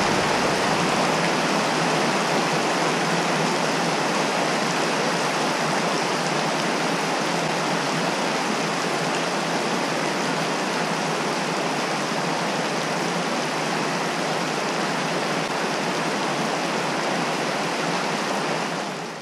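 Heavy rain pouring down onto lake water and wooden docks, a steady even hiss that fades out at the very end.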